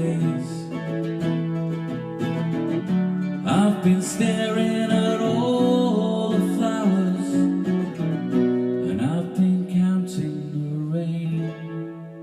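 Acoustic guitar strumming in a song's closing instrumental passage, with sustained notes ringing under it, fading out near the end.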